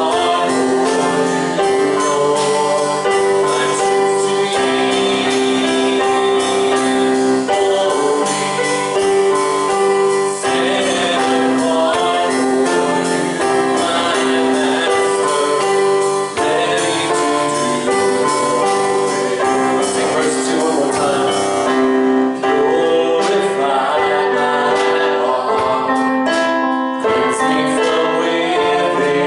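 Congregational worship music: voices singing over a sustained instrumental accompaniment, with long held chords that change every few seconds.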